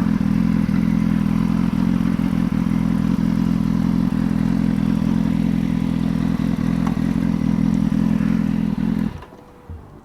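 Sport motorcycle engine idling steadily at a constant pitch, cutting off about nine seconds in.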